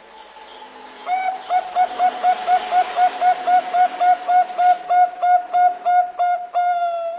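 Zebra dove (perkutut bangkok) cooing: a fast, even run of short clear coos, about four or five a second, ending in one longer held note that dips slightly in pitch.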